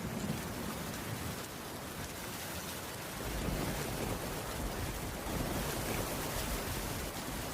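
Heavy rain falling steadily on a wooden cabin roof, with a low rumble of thunder building about three seconds in.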